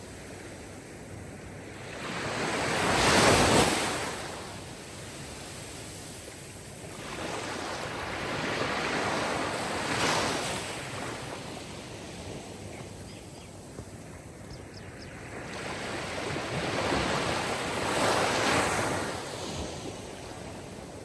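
Sea surf: waves washing in three times, about every seven or eight seconds, each surge rising and falling away. The first surge, a few seconds in, is the loudest.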